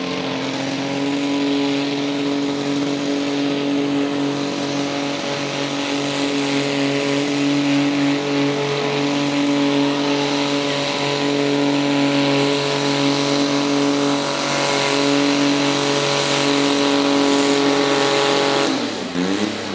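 Diesel garden pulling tractor's engine running flat out at one steady pitch through a sled pull, then dropping away about a second before the end.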